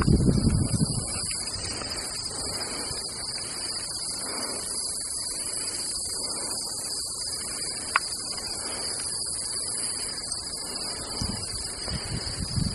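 Crickets chirping in a steady, high-pitched chorus throughout, with rustling through brush or grass in the first second and again near the end, and a single sharp click about two-thirds of the way through.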